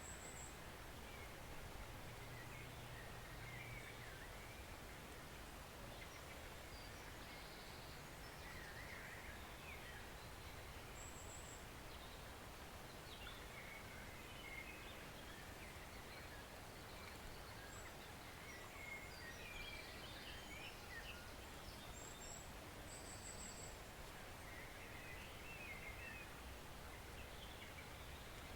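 Faint, steady rush of a forest stream, with scattered short bird chirps and twitters throughout.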